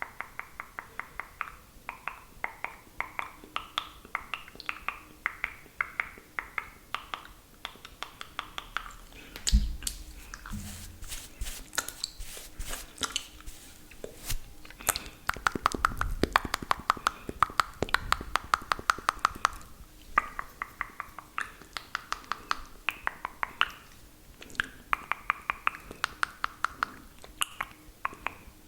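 Close-miked wet mouth sounds: rapid lip smacks and tongue clicks, several a second, with one louder bump against the microphone about ten seconds in.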